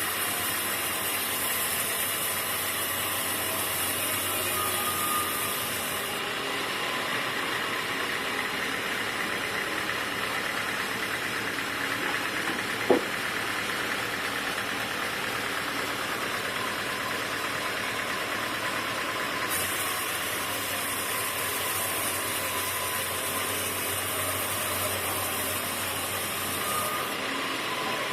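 Sawmill machinery running steadily. A high hiss comes in twice, once at the start and again for several seconds near the end, and there is one sharp knock about halfway through.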